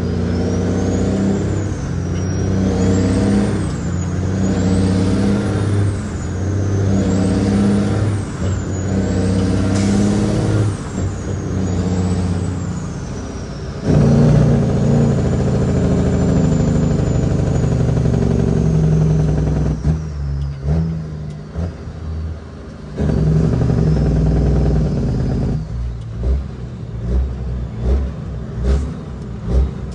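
Caterpillar 6NZ diesel engine of a heavily loaded Kenworth W900L pulling on the road, its revs climbing and dropping about every two seconds, with a high whistle rising and falling along with them. About halfway through it settles into a long steady pull, then eases off, with a regular low pulsing near the end.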